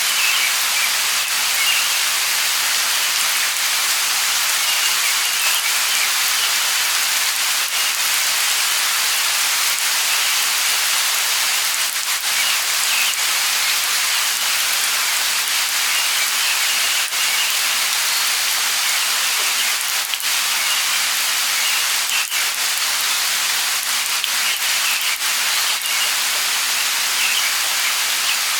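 Steady light rain falling, an even hiss with scattered sharp drop ticks, and faint bird chirps dotted through it.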